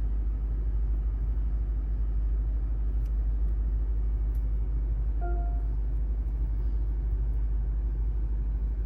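Steady low rumble of the 2024 Lexus IS 500 F Sport running evenly, with no revving. A short beep sounds about five seconds in.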